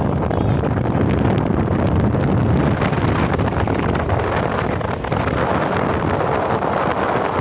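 Wind rushing over the microphone of a moving motorcycle: a loud, steady rush with no breaks.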